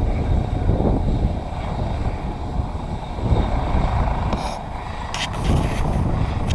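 Helicopter's rotor and turbine running nearby: a steady, rough low rumble, with a few short bursts of hiss a little after the middle.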